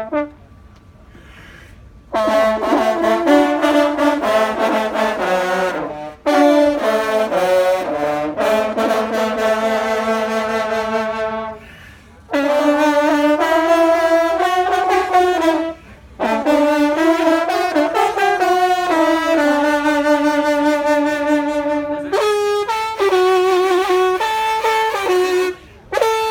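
Brass instruments playing music in long held notes, in phrases of a few seconds separated by short pauses, starting about two seconds in.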